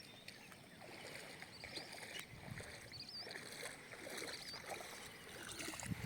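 Open-field ambience: a bird repeats a short, wavering high note about every one and a half seconds over a faint, steady rushing noise.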